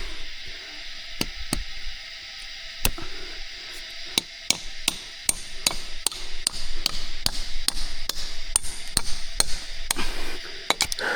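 A series of sharp knocks, like hammering or chopping, spaced irregularly: a few at first, then two or three a second from about four seconds in, over a steady faint high hiss.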